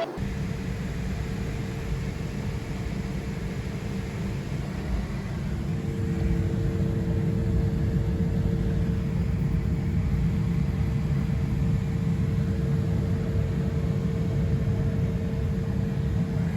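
Small private aircraft's engines droning steadily, heard inside the cabin as a low rumble with a steady hum. A second hum tone joins and the drone grows a little louder about five seconds in.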